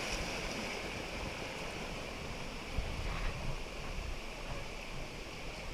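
Steady rush of flowing river water around the raft, with low wind rumble on the microphone.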